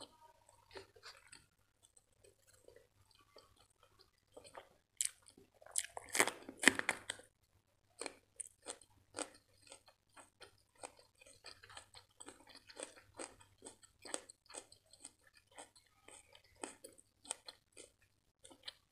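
Close-miked chewing of crunchy food. The loudest cluster of crunches comes about five to seven seconds in, followed by steady chewing at two or three chews a second.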